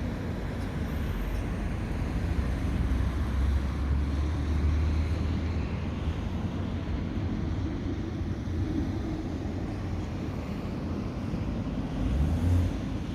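Low, steady rumble of a light propeller aircraft's engine, swelling briefly near the end, with some wind on the microphone.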